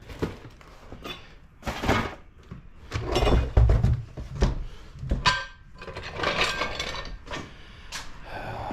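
Metal parts and hand tools clinking and knocking as parts are handled and taken off a car. The clatter comes in uneven bursts, loudest about three seconds in and again near six to seven seconds, some knocks with a short metallic ring.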